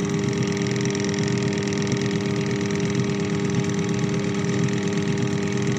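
Washing machine's spin-dryer electric motor running with a steady hum.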